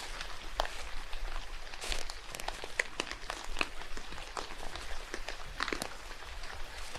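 Rain in a forest: a steady patter with many irregular drops ticking and tapping, and footsteps crunching on wet ground now and then.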